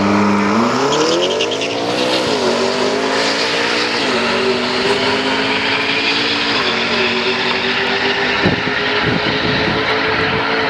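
Supercar accelerating hard down a drag strip: the engine note climbs, then drops at each quick upshift, three times in a row as the car pulls away.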